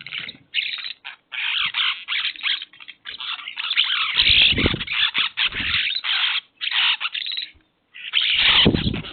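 A flock of birds chattering in a dense, choppy chorus, broken by short pauses, with two brief low rumbles about halfway and near the end.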